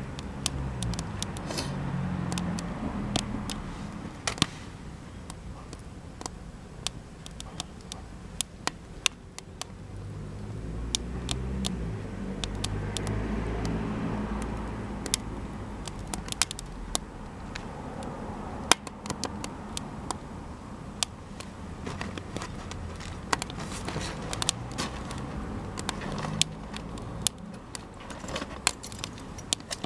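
Campfire of cedar offcuts crackling, with sharp irregular pops and snaps from the burning wood throughout. A low rumble swells underneath at the start and again midway.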